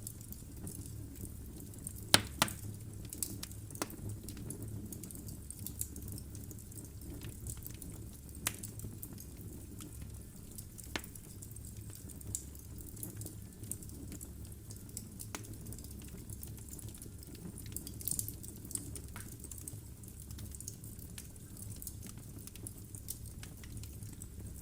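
Logs burning in a fireplace: sharp crackles and pops scattered irregularly over a low steady rumble of the flames, the loudest pop about two seconds in.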